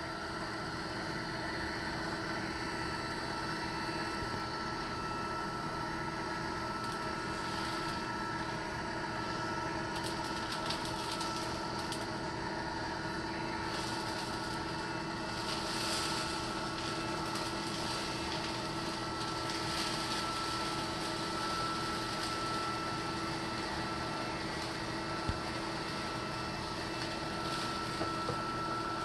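Litter-Robot 3 self-cleaning litter box's drive motor running steadily, a constant mechanical hum with a steady tone. A few faint pops come near the end, the kind of popping noise the unit makes while cycling.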